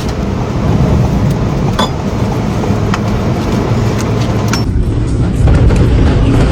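Strong wind buffeting the microphone: a loud, low, fluctuating rumble that grows louder about five seconds in, with a few faint clicks.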